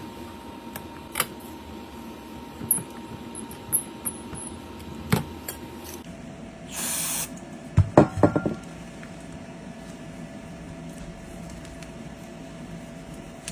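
Workbench sounds of a phone repair: scattered small clicks and taps, a short hiss of spray or air about seven seconds in, then a quick run of sharp clicks, over a steady low hum.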